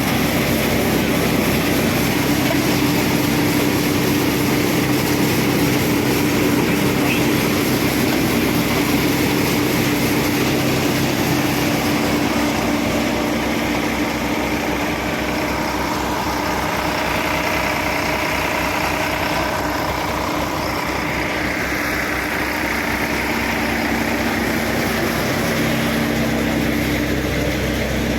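Tractor-driven multicrop thresher and its tractor engine running steadily, a continuous machine drone with a low hum.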